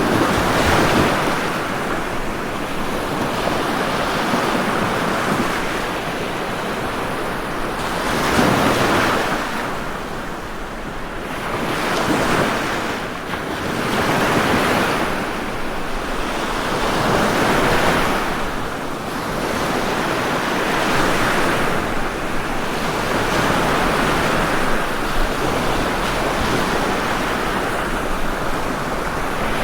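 Ocean waves breaking and washing on the shore, a continuous surf that swells with each breaker every few seconds.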